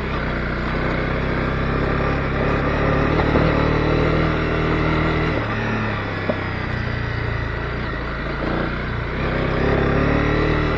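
Honda CB250R single-cylinder engine running on the move. Its note eases off around the middle, with one sharp click about six seconds in, then climbs again near the end as the throttle opens.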